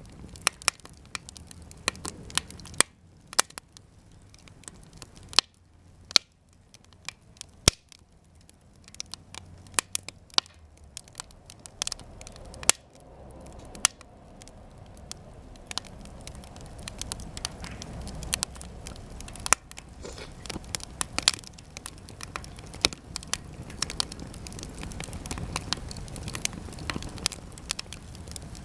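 Japanese cedar offcuts burning in a campfire, crackling with many sharp, irregular pops. Beneath the pops a low rush of flame grows stronger through the second half.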